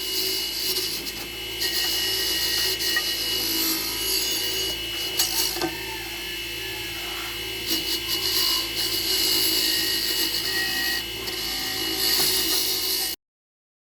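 Steady scraping and rubbing of a tool working on a surface, cutting off abruptly near the end.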